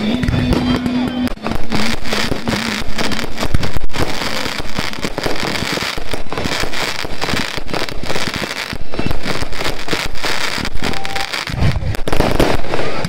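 Aerial firework barrage, with shells bursting one after another in a dense, continuous run of bangs and crackling stars.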